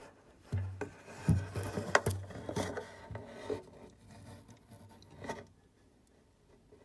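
Handling noises: scraping, rubbing and a few sharp clicks, with a brief low hum in the first two seconds, dying away to quiet in the last second and a half.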